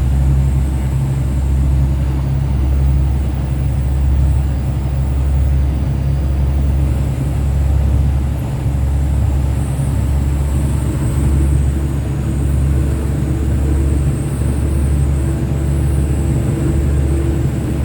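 Diesel train running steadily, heard from on board as a loud, continuous low rumble.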